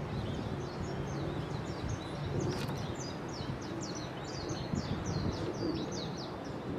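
Small birds chirping, a quick run of short high notes, over steady outdoor background noise.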